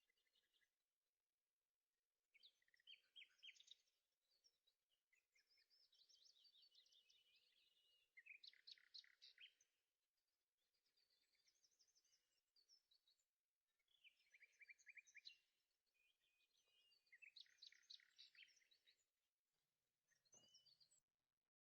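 Faint bird song: short chirping, trilled phrases repeated every couple of seconds with brief pauses between them.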